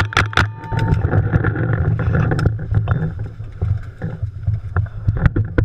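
Paintball marker firing a rapid string of shots, about five a second, that stops about half a second in. After that a steady low rumble on the microphone, with a few scattered single shots and one sharper crack near the end.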